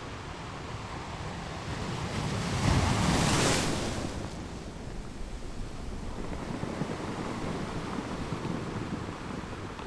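Ocean waves on a shore: one wave builds, breaks and hisses up the beach about three seconds in, then the surf settles back to a steady wash.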